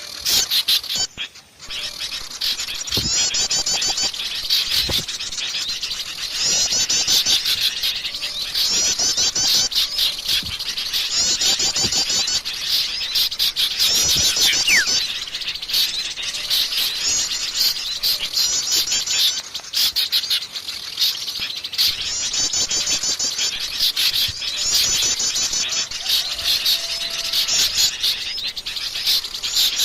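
A dense chorus of many small songbirds chirping and calling together, with bursts of rapid high trills every couple of seconds: a mixed-species bird-lure (pikat) recording of noisy small birds such as bulbuls.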